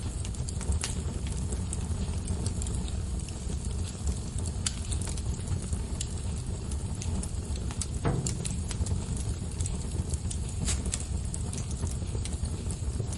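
Wood fire burning: a steady low rumble of flames with scattered sharp crackles and pops from the burning logs, one louder pop a little past halfway.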